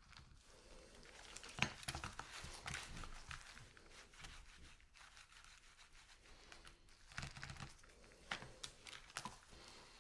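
Chocolate packaging being torn open and crinkled by hand, in two spells of irregular crackling with quieter rustling between.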